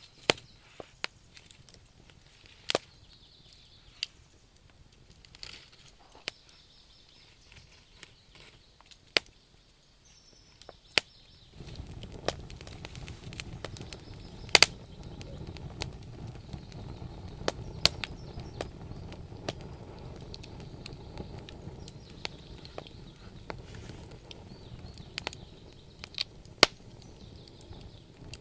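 Wood fire crackling: scattered sharp pops and snaps from burning logs. About a third of the way in, a steady low rush sets in beneath the pops.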